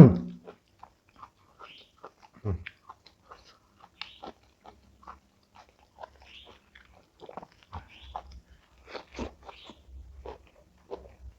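Close-up chewing and crunching of a full mouthful of crunchy food, with many small irregular crackles. A single loud thump comes at the very start.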